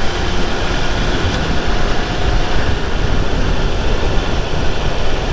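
Triumph Speed Triple 1200 RR on the move, its engine running under a loud, steady rush of wind noise.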